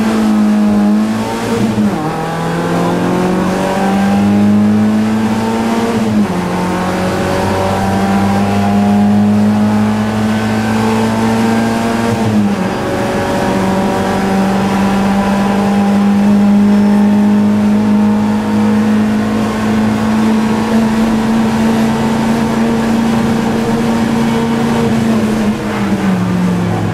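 BMW E30 318iS rally car's four-cylinder engine heard from inside the cabin, accelerating hard with the pitch climbing in each gear and upshifts about 2, 6 and 12 seconds in. It then holds high revs flat out for a long stretch before easing off near the end.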